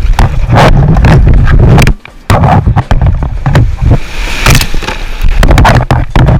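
Heavy rumbling buffeting on the camera microphone while out on the water, broken by many sharp knocks. It cuts out briefly about two seconds in.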